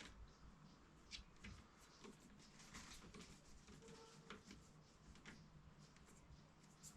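Near silence with faint, scattered small clicks and taps, a handful of them a second or so apart: small parts being handled during reassembly.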